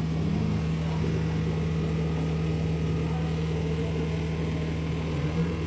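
Steady low drone of a running vehicle engine, holding one pitch throughout.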